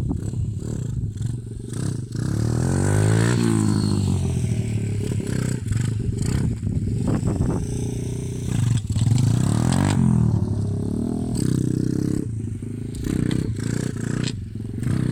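Lifan 110cc pit bike's small single-cylinder four-stroke engine running under riding, revving up and dropping back repeatedly, with clattering knocks mixed in.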